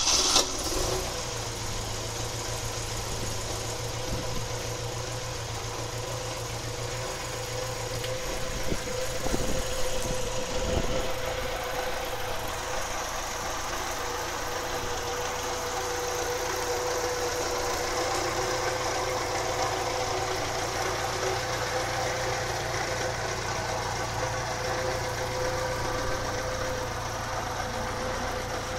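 1970 Saab 96's V4 engine idling just after starting, with a short rise in revs about nine to eleven seconds in. It runs through a newly fitted Jetex exhaust.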